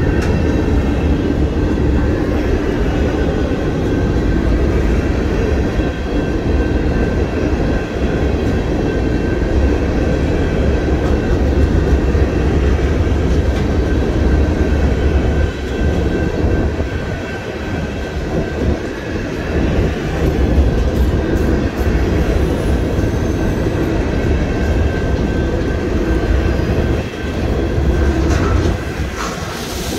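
Herzog freight cars of a passing train rolling by: a steady, continuous rumble of steel wheels on the rails.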